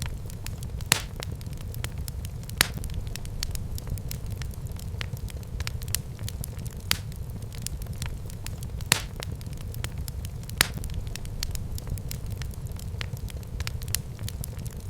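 Wood fire burning in a fireplace: a steady low rumble of flames under constant light crackling, with a few sharper, louder pops scattered through.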